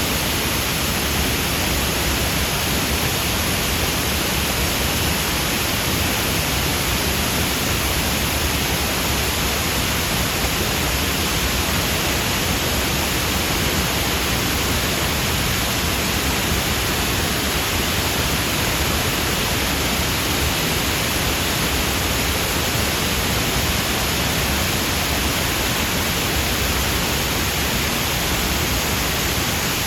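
Large artificial waterfall pouring down a former quarry cliff: a steady, even rush of falling water.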